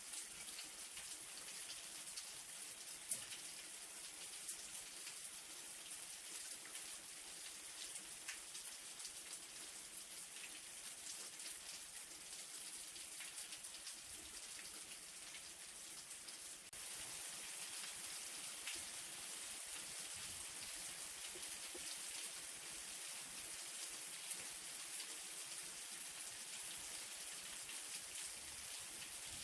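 Light rain falling steadily: a fine, even hiss with scattered individual drops ticking through it, getting slightly louder a little over halfway through.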